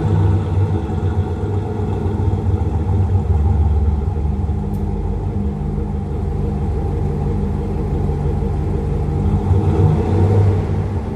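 1997 Jeep Grand Cherokee ZJ's 5.2-litre V8 idling steadily through a custom four-outlet exhaust, just after start-up, with a low rumble and a slight rise in level near the end.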